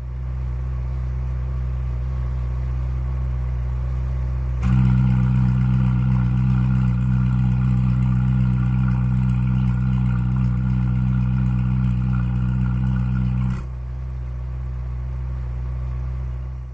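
Ferrari 458 Italia's V8 idling at a steady pitch. About four and a half seconds in, the exhaust note jumps to a louder, fuller sound as the exhaust bypass valves are opened by the valve controller. About nine seconds later it drops back to the quieter idle note as they close.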